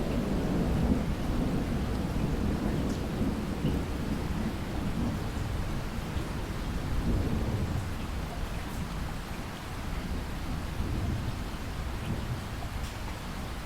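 Steady rainstorm with a low rolling rumble of thunder, heaviest in the first few seconds and slowly easing.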